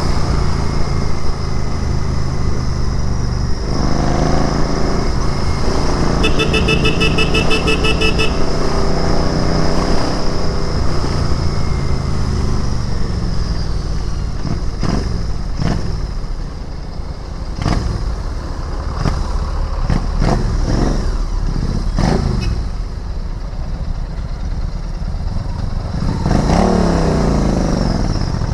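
Royal Enfield Interceptor 650's parallel-twin engine running while riding through city traffic, its pitch sliding as it is revved and shifted about four seconds in and again near the end. About six seconds in, a vehicle horn beeps in rapid pulses for about two seconds.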